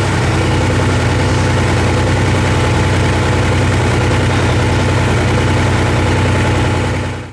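A pulling vehicle's engine idling loudly and steadily, with no revving, cut off abruptly near the end.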